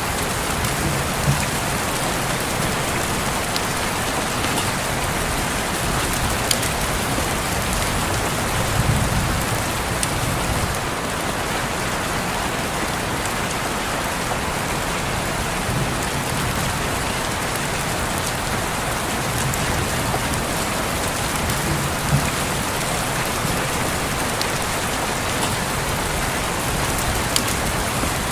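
Steady rain falling on a window pane, a constant hiss with scattered individual drop ticks and occasional soft low rumbles.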